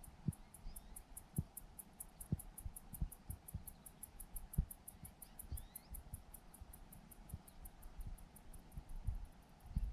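An insect chirping in a fast, steady, high-pitched pulse of about seven chirps a second, with soft low thumps now and then.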